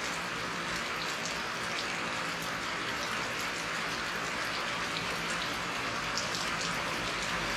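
Rain falling steadily: a dense, even hiss with scattered individual drop hits.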